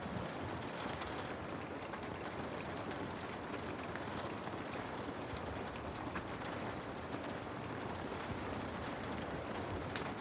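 Steady rain on a window: a dense, even hiss with scattered drops ticking.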